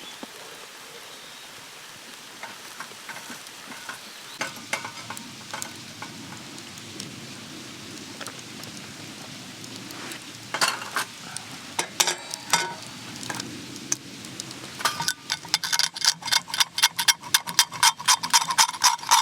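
Metal utensil scraping and tapping on a hot iron griddle while eating from it, with faint sizzling; scattered clicks at first, then from about three-quarters of the way in a quick run of ringing taps, about four a second.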